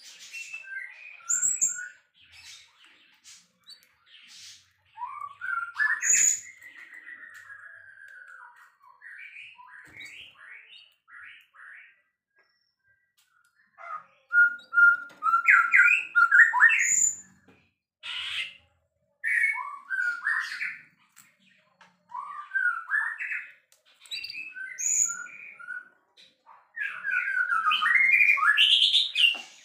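White-rumped shama (murai batu) singing a loud, varied song of whistled glides, rapid chattering runs and sharp high notes, phrase after phrase, with a pause of about two seconds a little before the middle.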